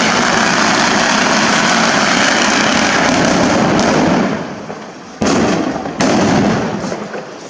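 Dense, continuous crackle of exploding firecrackers for about four seconds, dying away, then two sharp loud bangs less than a second apart.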